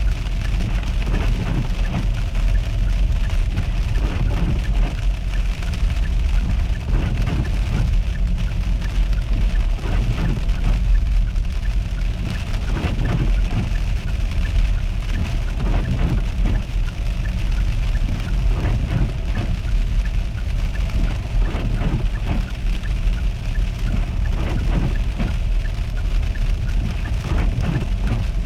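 Steady low rumble of a car driving on a storm-covered road, with many small ticks and crackles scattered through it.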